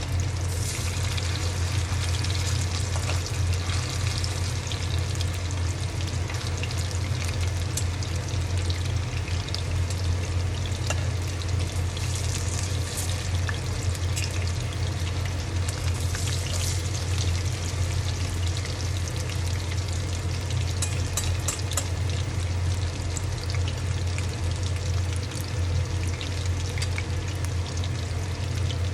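Battered fish pakoras deep-frying in hot oil: a steady sizzle with scattered crackles and pops, over a steady low hum.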